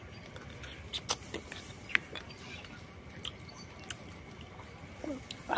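Close eating sounds of a person chewing grilled oysters, with scattered sharp clicks and taps and a short vocal sound near the end.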